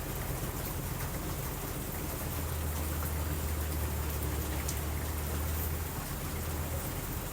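Steady rain falling, an even hiss. A low thunder rumble swells about two seconds in and fades away near the end.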